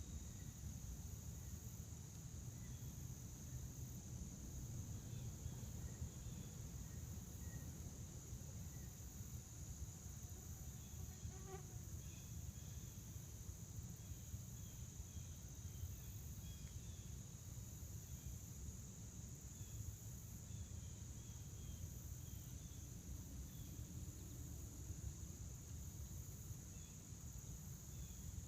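Crickets chirring in one steady, unbroken high-pitched trill, with faint scattered bird chirps over a constant low background rumble.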